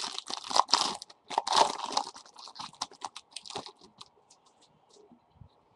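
Crinkling and rustling of a trading-card pack's wrapper and the cards being handled, densest in the first two seconds, then thinning to a few light clicks that fade out.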